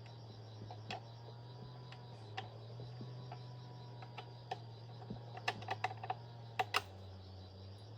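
Scattered light clicks and taps, a quick cluster of them near the end, over a steady low hum and insects chirping.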